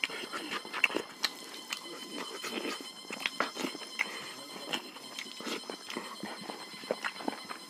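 Close-up eating sounds: chewing and lip smacking, a steady run of irregular wet clicks, as rice is eaten by hand.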